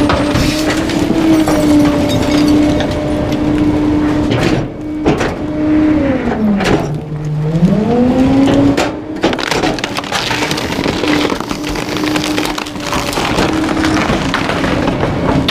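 Trash truck packer compacting bulky waste: a steady mechanical whine runs under cracking and crunching debris. Its pitch drops sharply about seven seconds in and climbs back a couple of seconds later.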